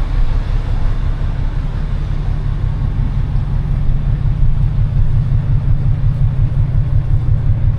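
Steady low engine rumble of a liveaboard boat, running evenly with no change in speed.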